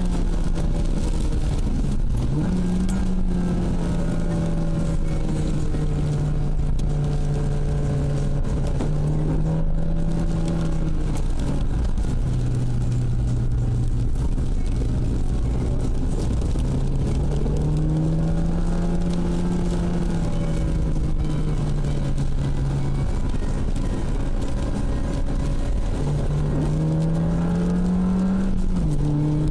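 Ford Puma's engine heard from inside the car while driving, over steady road noise. Its note rises and falls as the car works through the curves, and the pitch climbs, then drops suddenly near the end, as at a gear change.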